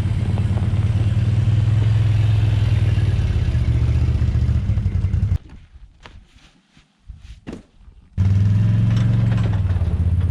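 ATV (quad) engine running steadily under way. The engine sound drops away abruptly about five seconds in, leaving a few faint knocks, and comes back loud about eight seconds in.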